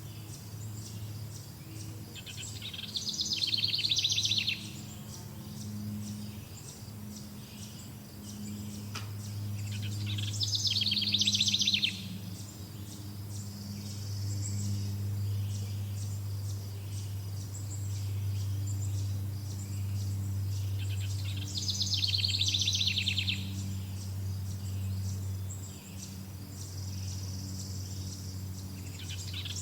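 Birdsong: a bird sings a short, rapid trilled phrase of about two seconds, three times, with pauses of several seconds between. Insects tick steadily and high underneath, over a low steady hum.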